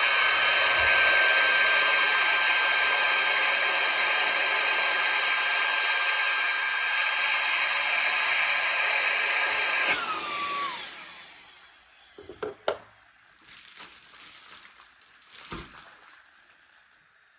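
Cordless handheld vacuum's motor running with a steady high-pitched whine, then switched off about ten seconds in and winding down with falling pitch. A few light knocks follow near the end.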